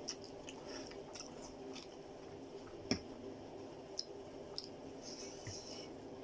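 A person chewing mouthfuls of chicken chow mein close to the microphone, with wet mouth clicks at irregular intervals; one click about three seconds in is louder than the rest.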